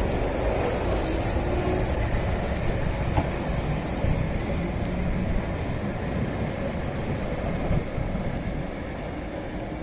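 Keihan 600-series two-car electric train running, a steady low rumble of the train in motion that eases off over the last few seconds, with a faint rising whine near the end.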